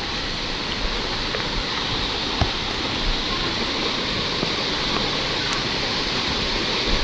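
Waterfall's steady rush of water, with one light knock about two and a half seconds in.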